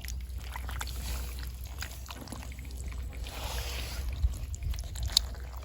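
Shallow muddy water splashing and trickling as hands search through it for snails, with scattered small clicks and a low rumble; a louder splash about three seconds in and a sharp click near the end.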